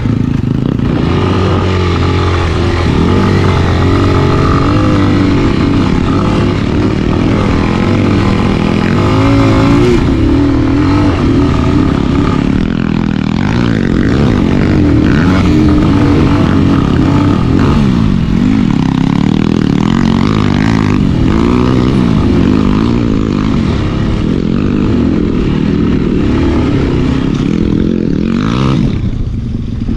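Dirt bike engine running under way, its pitch rising and falling as the throttle is worked and eased off over rough ground.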